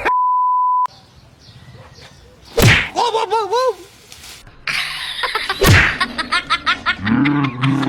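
A steady beep lasting under a second, then two sharp cracks a few seconds apart, with short voice-like sounds and rattling clicks between them and a low voice near the end.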